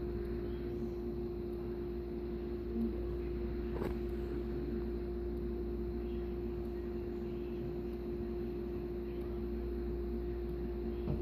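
Steady hum with one constant tone over a low rumble, with a single faint tap about four seconds in.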